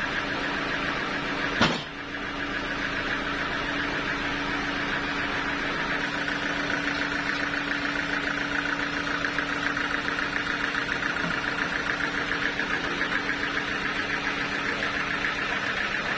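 An engine running steadily at an even speed, with one sharp knock a little under two seconds in.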